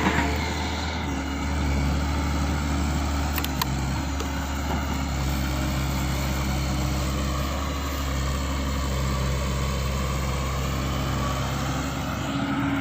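A vehicle engine running steadily at low revs, a continuous low drone that shifts slightly in pitch a few times.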